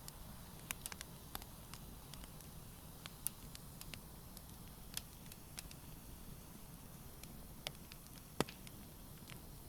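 Wood campfire crackling: sharp, irregular pops and snaps over a low, steady burning hiss, with one louder pop near the end.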